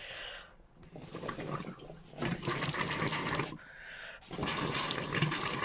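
Water and air gurgling through a van's water pipes as someone blows hard into the shower hose, in three long blows. It is a funny noise with no resistance behind it, a sign that the blockage may have cleared.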